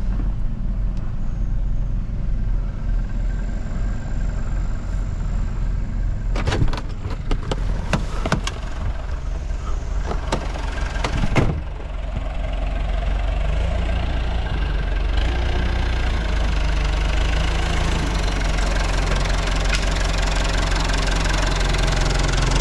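Backhoe engine running steadily, with a handful of sharp knocks, likely metal clanking, between about six and eleven seconds in. The engine grows louder and busier in the second half.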